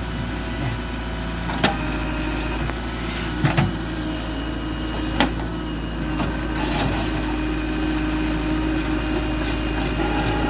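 Heavy diesel machinery engine running steadily, with a few sharp metallic knocks in the first half, two of them close together.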